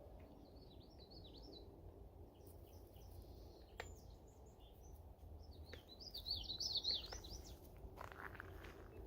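A songbird singing in short, quick twittering phrases, a first one right away and a louder one about six seconds in, over a faint low rumble of the woods.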